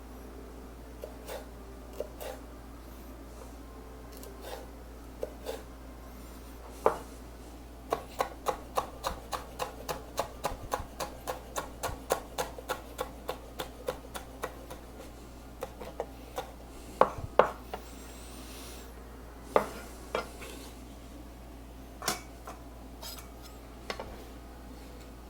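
Kitchen knife chopping on a cutting board: a few scattered cuts, then a steady run of quick chops about three to four a second, then a handful of louder, separate knocks.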